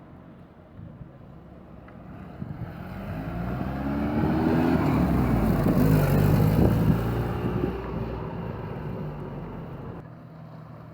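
A motor vehicle drives past, its engine growing louder to a peak about six seconds in, with the engine note sliding in pitch as it passes, then fading away.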